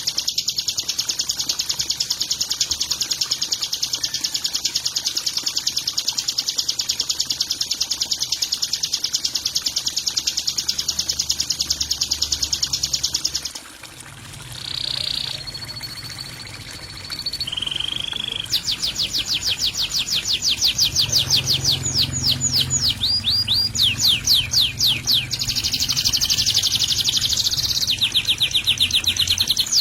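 Songbird calls played as a training track for caged birds. A fast, buzzy trill runs unbroken for about thirteen seconds and stops. A few single whistled notes and one held whistle follow, then quick series of sweeping chirps and dense trills.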